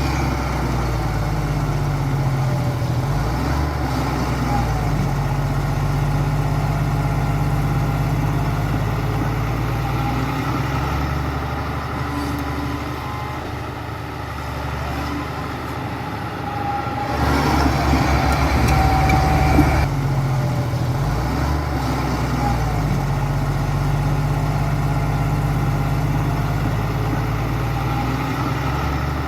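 Heavy diesel engine of earthmoving machinery running steadily, its low note rising and falling as the load changes. It gets louder and rougher for a few seconds past the middle.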